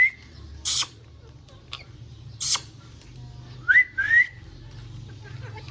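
A pet parrot whistling: short rising whistle notes, one at the start and two close together a little past halfway. Between them come two brief, harsh, hissy sounds.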